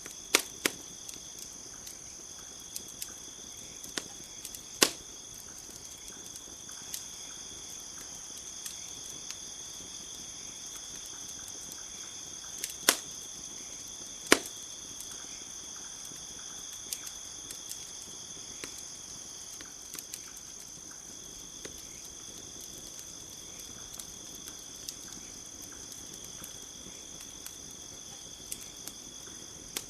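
Campfire crackling, with scattered sharp pops, the loudest about five seconds in and twice around thirteen to fourteen seconds in, over the steady high chirring of crickets.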